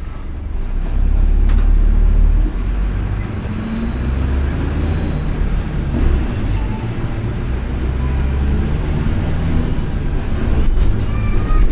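Mercedes-Benz OF-1722M bus's turbodiesel engine running under way with a deep rumble, its turbocharger whistling. The engine grows louder over the first two seconds, drops back sharply about two and a half seconds in, then runs steadily.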